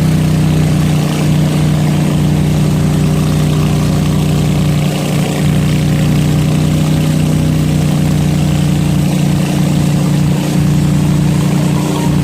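Small fishing boat's engine running steadily at an even pitch while the boat travels along a canal.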